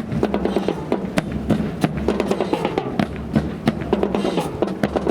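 Drum music with a steady beat, mixed with many sharp clacks several times a second, as from drill rifles being slapped and handled in a fancy rifle drill.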